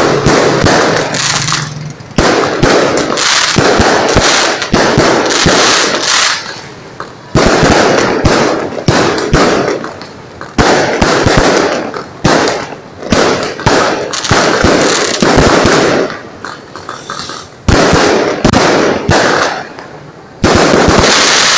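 Fireworks going off in dense volleys of sharp bangs and crackling, many cracks in quick succession, coming in waves of a few seconds with short lulls between.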